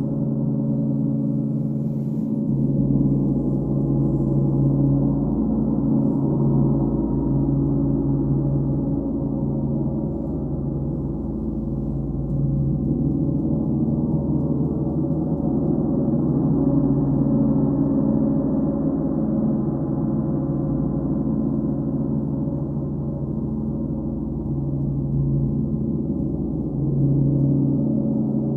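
Sound-bath playing: deep, sustained ringing tones that overlap and swell and ease in slow waves.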